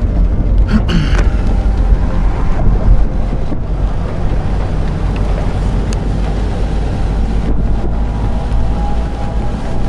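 Steady low rumble of a car driving in a storm, with wind buffeting the microphone. Near the end a faint, steady tone of a distant outdoor tornado warning siren comes in.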